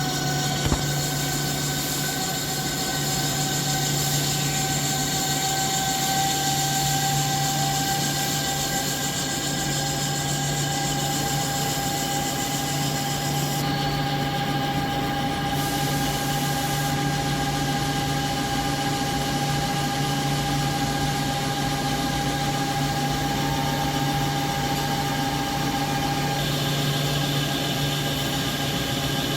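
CNC lathe running steadily, with a low hum and a steady whine; a short click comes just under a second in, and the whine stops about 26 seconds in while the machine keeps running.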